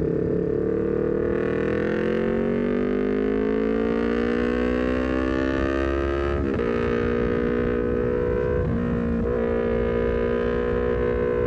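Honda CBR250RR parallel-twin engine through an aftermarket Leovince GP Corsa carbon silencer, pulling in gear with its pitch rising steadily for about six seconds. The pitch then drops sharply with a quick upshift and the engine holds a steady note, dipping briefly twice.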